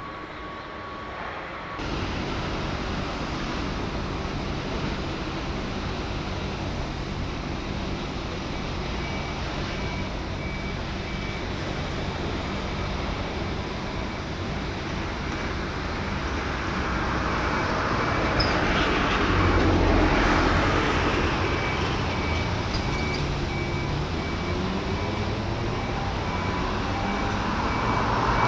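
Motor vehicle engines and road traffic running steadily, swelling as vehicles pass around the middle and again near the end. A faint high beep repeats evenly from about nine seconds in.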